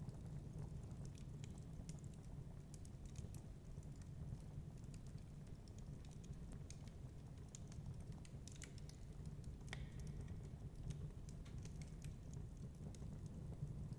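Wood fire crackling in a fireplace, with many small irregular snaps and pops, over a steady low rumble of storm wind.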